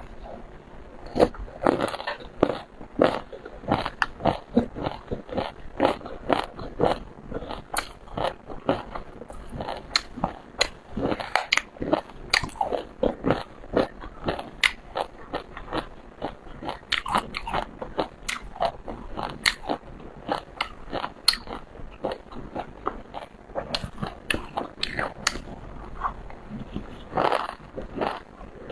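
Close-miked eating of seafood: continuous biting and chewing with many short, crisp crunches, several a second.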